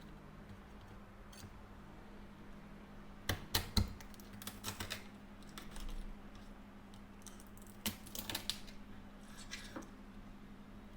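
Scattered sharp clicks and clacks in small clusters, a few at a time, from crayfish shells and utensils being handled during cleaning, over a faint steady hum.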